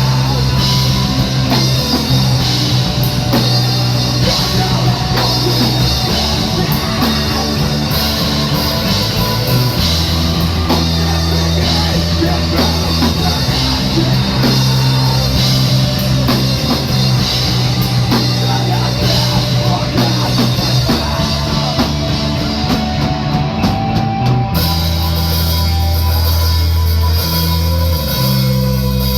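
A rock band playing a song on a drum kit and guitar, with sustained low notes under dense drumming.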